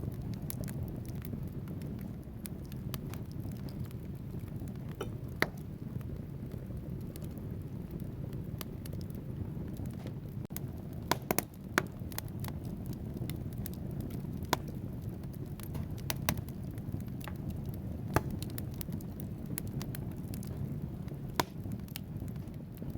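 Wood fire burning in a fireplace: a steady low rumble of flames with scattered sharp crackles and pops from the burning logs, a quick cluster of the loudest pops about halfway through.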